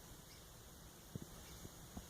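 Red-cockaded woodpecker pecking inside its artificial cavity insert: a few faint, dull taps a little past the middle, over a quiet steady hiss.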